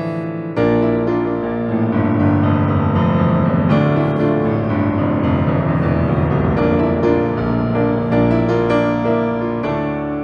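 Instrumental music with no singing, led by sustained keyboard chords; a fuller chord with deep bass comes in about half a second in.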